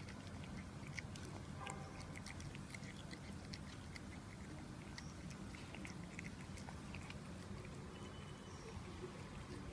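Domestic cat eating wet food: faint, irregular small clicks and smacks of chewing, all through.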